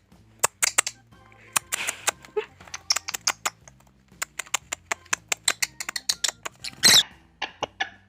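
Pet parrot making rapid sharp clicks and short chirps, with one longer, louder call about seven seconds in, over background music.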